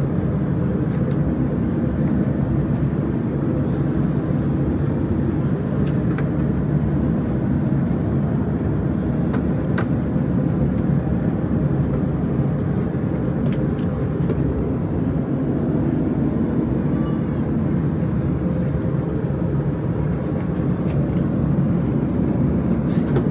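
Steady cabin noise inside an Airbus A350-1000 on descent: an even, low rush of airflow and engine noise, with a few faint clicks.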